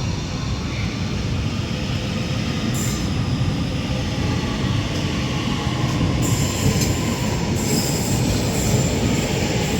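Northern Class 331 electric multiple unit pulling out of the station, its wheels rumbling steadily on the track. A thin high squeal joins in from about six seconds in.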